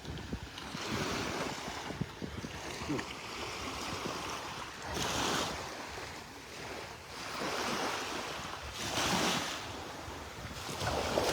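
Small surf breaking and washing up a sand beach, swelling and easing in several surges, with wind on the microphone.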